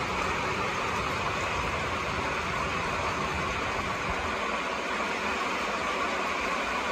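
Steady rain falling, an even hiss with no let-up. A low rumble underneath fades out about four seconds in.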